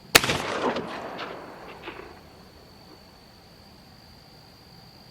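A single sharp, loud bang just after the start, followed by about two seconds of fading clatter with a few smaller knocks. Under it an insect keeps up a steady high trill throughout.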